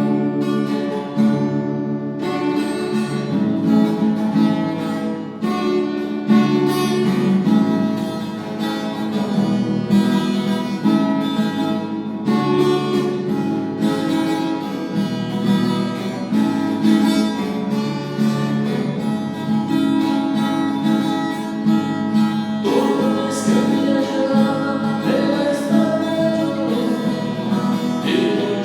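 Acoustic guitar strummed in a steady rhythm, with what sounds like a backing track or choir-like voices underneath; a sung or held melodic line comes in about 23 seconds in.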